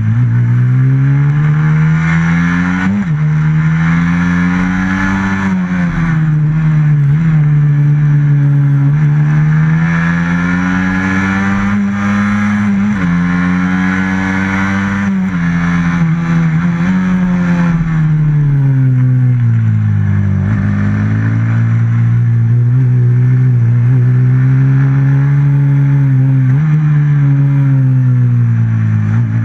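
Race motorcycle's stock FXR150 engine heard on board, revving up and backing off around a tight track: the pitch climbs steadily, then drops sharply several times at gear changes or off-throttle, with one long low dip partway through before it winds up again.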